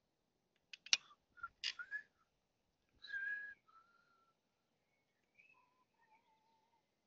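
Bird calls: a few sharp chirps, then a run of short, clear whistled notes at changing pitches.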